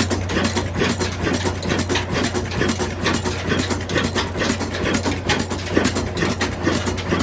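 Old Ruston diesel engine running steadily, a constant low hum under a fast, even mechanical clatter.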